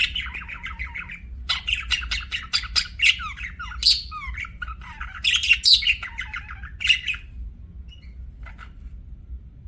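Budgerigars chattering and warbling, a quick stream of chirps and squawks that thins out after about seven seconds to a few short calls, over a low steady hum.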